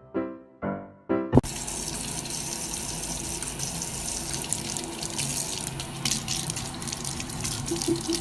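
A few repeated piano notes that cut off about a second and a half in, then steady running water, like a tap running.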